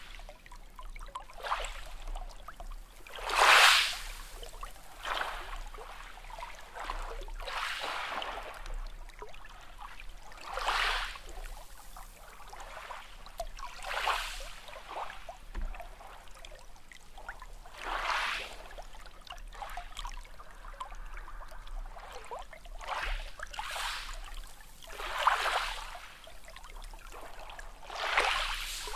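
Small sea waves washing in, one surge every two to four seconds, the loudest about three and a half seconds in.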